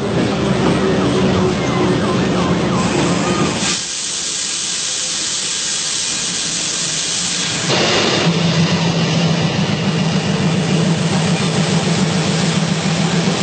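Train running with a steady low engine drone; about four seconds in, a loud hiss takes over for some four seconds while the drone drops away, then the drone comes back.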